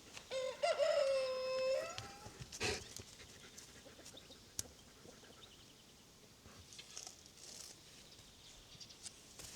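A rooster crowing once, a call of about two seconds that holds one pitch and then rises at its end. A short knock follows about a second later.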